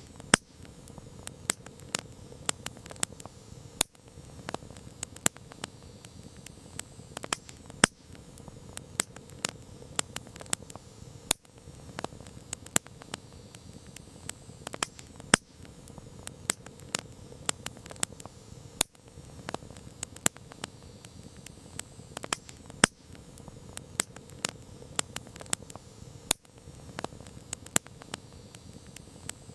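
Wood campfire crackling: frequent sharp pops and snaps over a soft, steady hiss.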